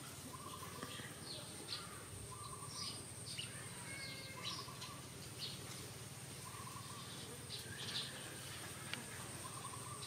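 Birds chirping and calling off and on: short high chirps, and a brief lower call repeated every couple of seconds. Beneath them runs a faint, steady, high-pitched whine.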